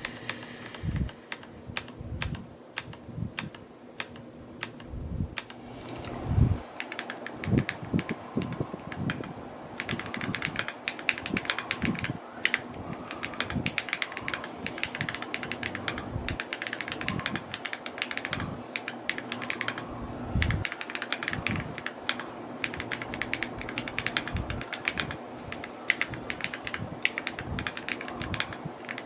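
Fast typing on an Evo80 custom mechanical keyboard: a dense run of key clacks, with deeper, louder strokes about every second.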